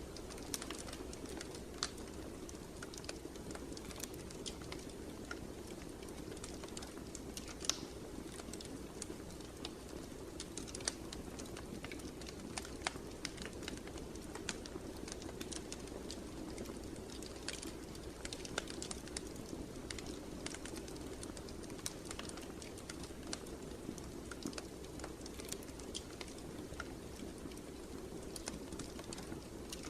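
Wood fire crackling in a fireplace: irregular sharp snaps and pops over a steady low rush of the flames.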